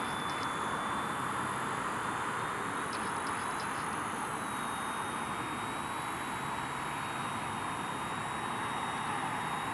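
Small electric RC helicopter whirring steadily in flight, its motor whine holding one high pitch that steps up slightly about halfway through.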